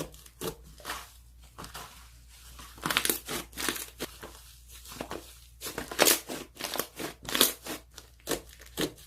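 Slime being squeezed and pressed by hand, making irregular clicks and pops.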